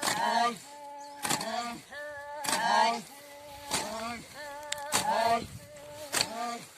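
Voices singing a repetitive, chant-like song in held notes, with a sharp strike about every second and a quarter keeping the beat.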